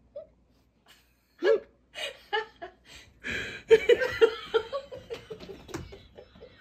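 A person laughing: a few separate chuckles from about a second and a half in, then a fast, unbroken run of laughs through the second half.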